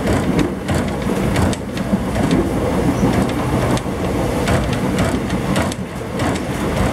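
Konkan Railway passenger train running at speed, heard from inside a coach: a steady rumble of wheels on rails with scattered irregular clicks.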